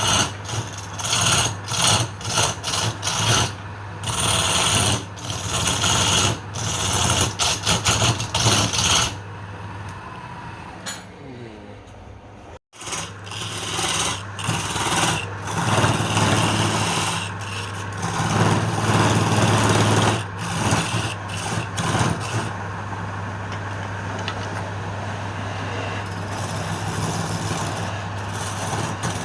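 Wood lathe motor running with a steady hum while a tool scrapes against the spinning wood in irregular bursts. The sound cuts out for a moment about twelve seconds in, then the motor runs on, with the scraping fading to a steadier, lower noise near the end.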